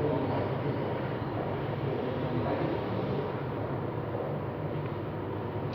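Steady low rumble with a hiss over it, even throughout with no single event standing out.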